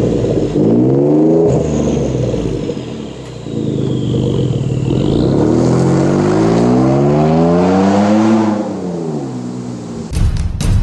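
Twin-turbo 3.5-litre EcoBoost V6 of a 2012 Ford F-150 through a prototype dual 3-inch stainless catback with round smooth-tube mufflers, accelerating under throttle. A short rise in pitch comes first, then a long climb over several seconds that peaks and drops away. Music comes in near the end.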